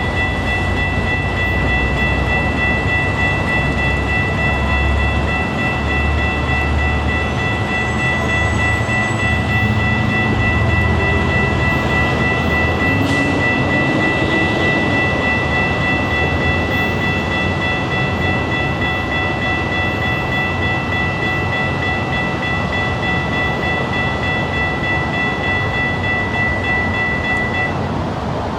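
A train rumbles at close range, with a steady high-pitched ringing tone over the rumble that stops shortly before the end.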